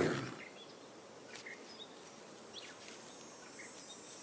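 A wolf's short snarl right at the start, then faint outdoor ambience with scattered brief high chirps from birds and insects.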